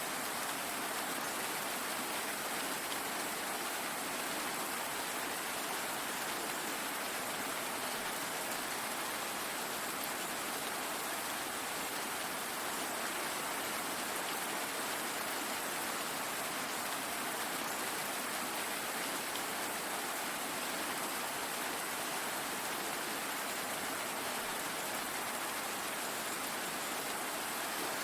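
Steady rain falling, an even, unbroken hiss of drops with no thunder or other events.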